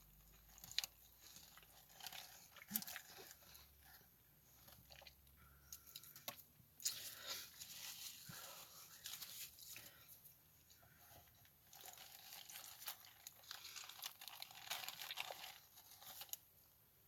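Faint, irregular crunching and chewing of a croissant breakfast sandwich whose croissant is hard and dry, with scattered sharp bites and crackles.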